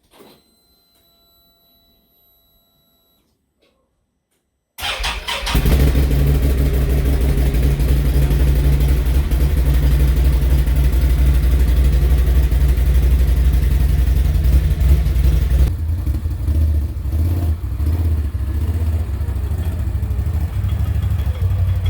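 A faint steady tone for about three seconds. Then, about five seconds in, the Can-Am Outlander 850 XMR ATV's V-twin engine fires abruptly and runs steadily, settling slightly lower at about sixteen seconds. It starts right away after being refuelled from empty.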